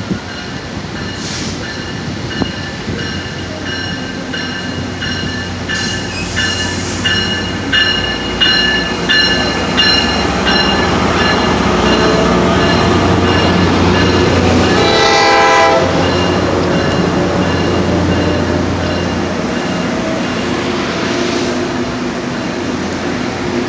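Tri-Rail commuter trains passing on parallel tracks. There is a rhythmic metallic clatter with ringing tones, about two beats a second, through the first ten seconds, then the low steady drone of an approaching diesel locomotive. A train horn sounds one blast of about a second, about fifteen seconds in.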